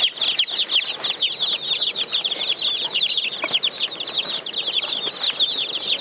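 Many Cornish Cross meat chicks peeping at once, a constant chorus of high, short, falling peeps.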